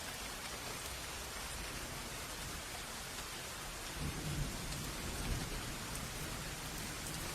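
Steady rain with a low roll of thunder rumbling in about four seconds in and fading over a couple of seconds.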